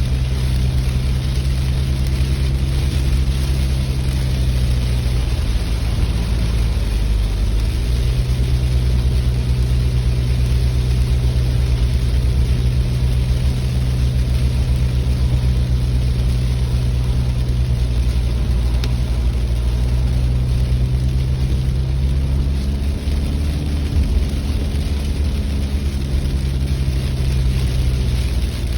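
Car running along the road: a steady low engine drone with road noise. The engine note dips about six seconds in and changes pitch again near the end as speed changes.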